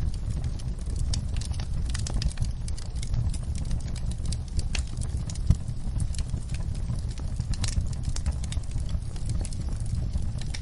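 Wood fire burning in a fireplace: a steady low rumble of flames with frequent small crackles and pops, one sharper pop about halfway through.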